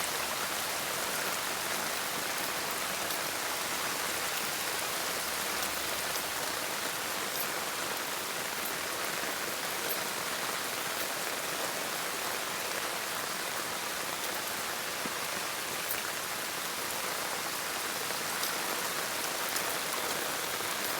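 Steady rain falling, an even dense hiss with scattered faint drop ticks.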